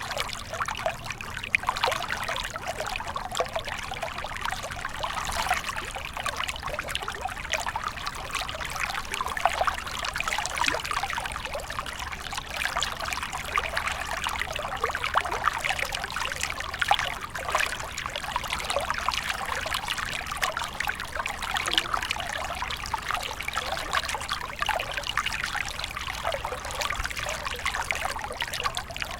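Small stream of water running steadily, with a constant trickling and burbling over stones.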